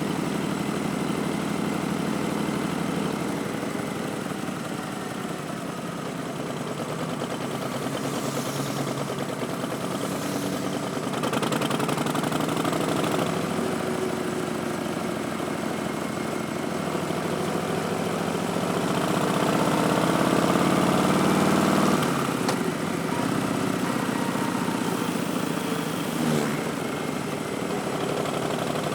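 Harley-Davidson Street Bob's Milwaukee-Eight 107 V-twin through Vance & Hines Twin Slash slip-on mufflers, running under way. About two-thirds of the way through it rises in pitch as the throttle opens, then drops off suddenly as the throttle is closed or a gear is changed.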